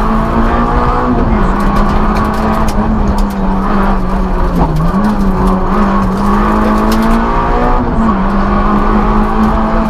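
Citroën Saxo N2 rally car's 1.6-litre four-cylinder engine heard from inside the cabin at full stage pace, revs climbing and dropping back with gear changes about a second in and again near the end.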